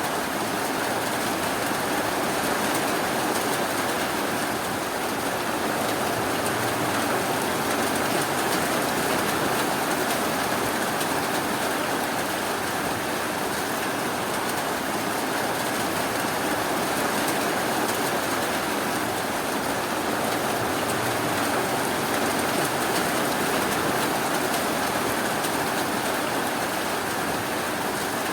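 Steady rainfall, an even hiss with no thunder or sudden sounds.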